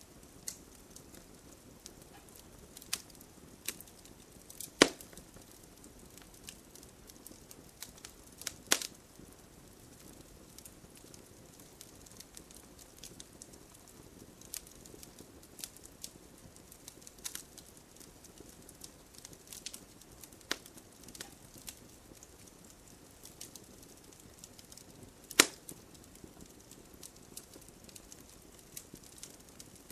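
Wood campfire crackling: a low steady hiss with irregular sharp pops and snaps, three louder pops standing out at about 5, 9 and 25 seconds in.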